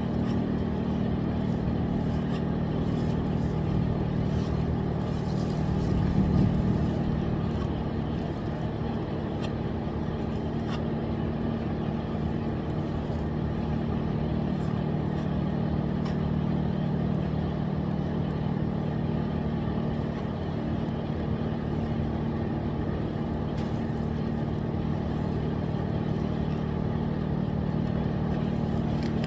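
A motor running steadily with an even, low hum, swelling slightly about six seconds in.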